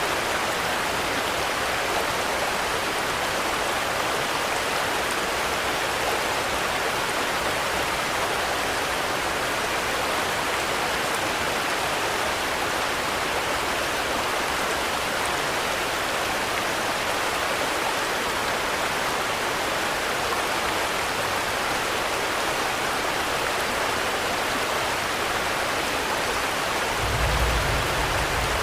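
Steady rain falling, an even hiss without separate drops standing out. Near the end, a short low rumble swells up for about a second and a half.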